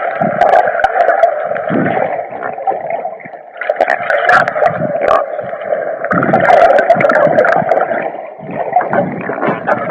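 Muffled water sloshing and gurgling with scattered sharp clicks, as heard by a camera at or under the water's surface while snorkelling.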